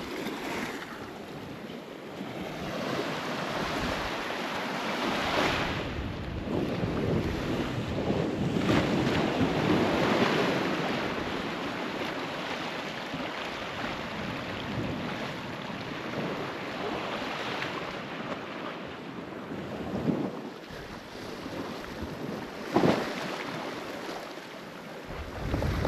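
Ocean waves washing and breaking, swelling and ebbing over several seconds, with wind buffeting the microphone. A couple of brief knocks come near the end.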